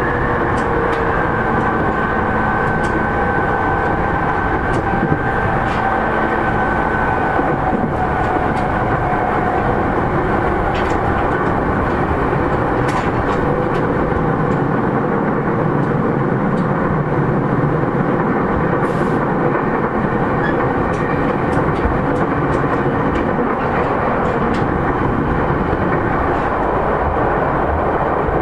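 Running noise inside a JR East E231 series 3000 subseries commuter train, a steady rumble of wheels on rail with scattered clicks. Over the first several seconds a whine from the Mitsubishi IGBT-VVVF traction equipment slowly falls in pitch and fades.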